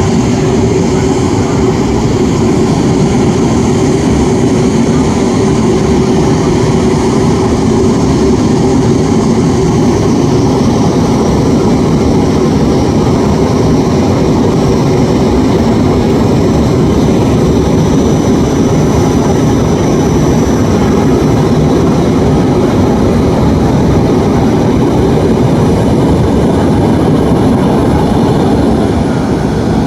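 Loud, steady jet noise from a Boeing 777-9 airliner's two GE9X turbofan engines in flight, with a faint high whine briefly near the middle.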